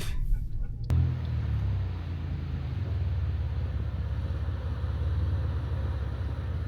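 A 4x4's engine running at low revs with a steady low rumble, cutting in abruptly about a second in.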